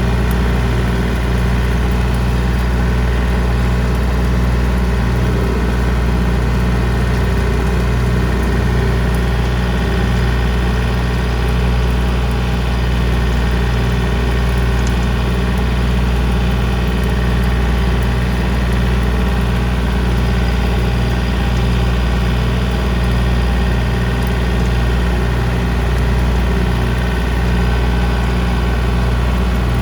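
John Deere 3025D compact tractor's three-cylinder diesel engine running steadily at constant speed while it drives a PTO-powered rotary cutter (brush hog) through the mowing.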